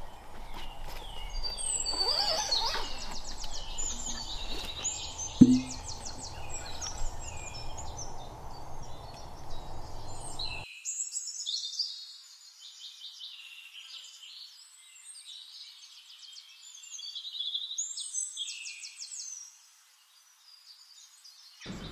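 Several birds singing in woodland, with many short chirps and rapid trills over a low outdoor rumble that drops away abruptly about halfway through. A single sharp knock about five seconds in.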